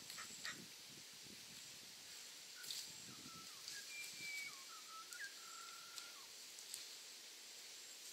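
Faint bush ambience: a bird giving a run of short whistled notes, a few of them gliding, through the middle, over light rustling, a few sharp clicks and a steady high hiss.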